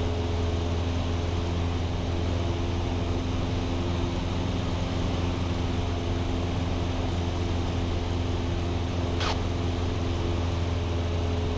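Cessna 172's four-cylinder piston engine and propeller droning steadily in cruise, heard inside the cabin, with a brief click about nine seconds in.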